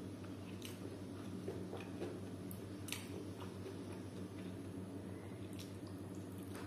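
Close-up eating sounds: chewing with scattered wet clicks and smacks of the mouth, over a steady low hum.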